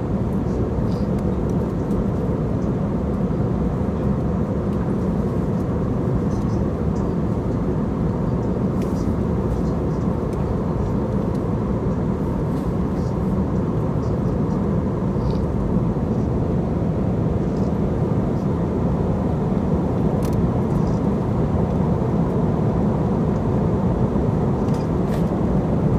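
Airliner cabin noise in flight: a steady, even low rumble of engines and airflow, with a few faint clicks.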